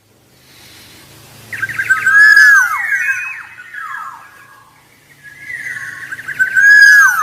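Black-naped oriole calling: two bouts of quick, slurred whistled notes that glide downward, the first starting about a second and a half in and the second near the end.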